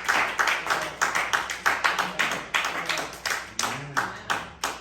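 Congregation clapping in a steady rhythm, about three to four claps a second, which stops near the end.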